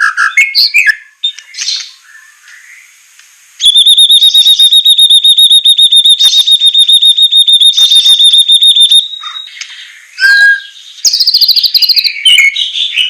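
White-rumped shama (murai batu) song, including its besetan: soft scattered notes give way a few seconds in to a long, fast, even trill held at one pitch for about five seconds, followed by sharp varied notes and quick high trills.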